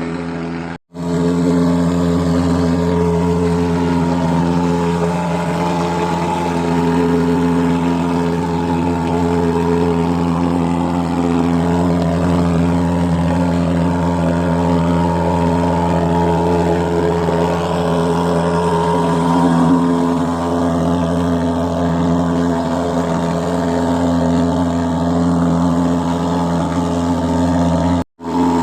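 Fogging machine engine running at a steady, loud drone, dropping out for an instant twice, about a second in and near the end.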